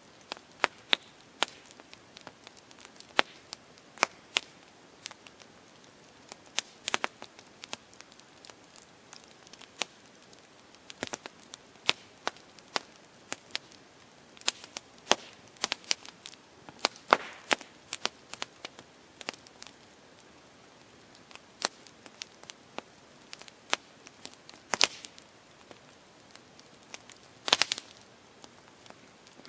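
Campfire burning wood, crackling with irregular sharp pops and snaps over a faint steady hiss.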